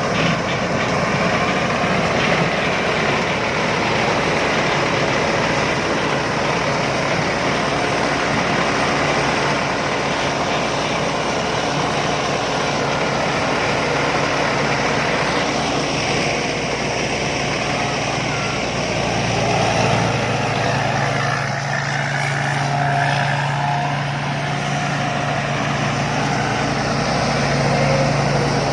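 Rice combine harvester running steadily in the field, its engine and threshing machinery making a continuous mechanical drone. About two-thirds of the way through, a deeper steady hum comes in more strongly.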